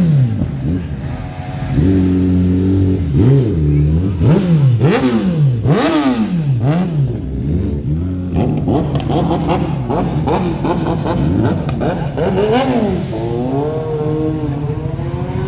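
Kawasaki ZX-10R superbike's inline-four engine revved through its exhaust: a string of sharp throttle blips, the pitch rising and dropping back about once a second, then settling to a steady idle near the end.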